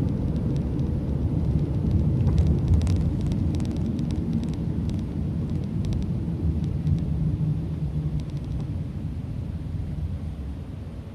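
Car driving, heard from inside the cabin: a steady low road and engine rumble with a few scattered light clicks, growing quieter near the end.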